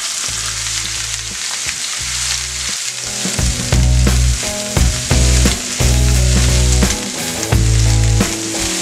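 Beef rolls sizzling as they brown in hot olive oil in a frying pan. From about three seconds in, a low pulsing and held pitched notes come in underneath and are louder than the sizzle.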